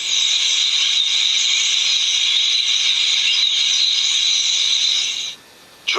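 A large flock of starlings calling all at once, a dense, steady, hissing wash of high chatter that cuts off about five seconds in.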